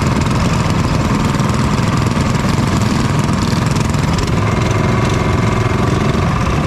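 Small minibike engines running steadily and loud. A faint steady higher tone joins about four and a half seconds in.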